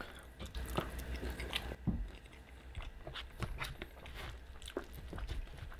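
Close-miked chewing of a mouthful of loaded carne asada fries, with soft, irregular wet mouth clicks.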